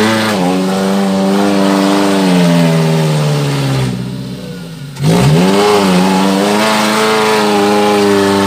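Suzuki Jimny's engine revving hard under load as the 4x4 climbs out of a muddy rut. The revs sag slowly over the first few seconds and dip briefly about four seconds in, then rise sharply about five seconds in and are held high.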